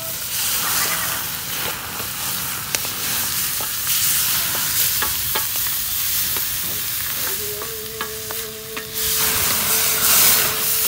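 Minced pork with garlic and shallots sizzling in hot oil in a wok over a wood fire, a wooden spatula stirring and scraping with sharp clicks against the metal. It grows louder near the end as the flames flare up around the wok, and a steady tone joins about seven seconds in.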